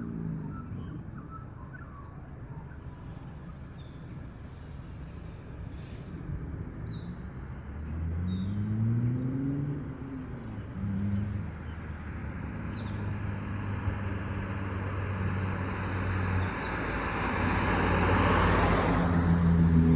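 Holden VF Commodore SV6's 3.6-litre V6 engine rising in pitch as it revs up about halfway through, then running at a steady pitch. Tyre and road noise swell louder near the end as the car comes closer.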